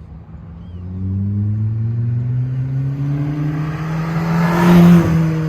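Ford Fiesta ST's turbocharged four-cylinder running through an aftermarket MBRP exhaust while the car accelerates, the exhaust note rising steadily in pitch and getting louder. Near the end it peaks and then drops off suddenly.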